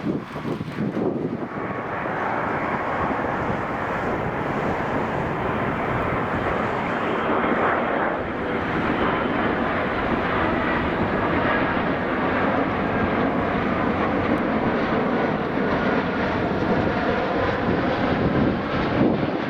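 Airbus A330 jet airliner arriving to land, its engines making a loud, steady rushing noise with a faint whine on top.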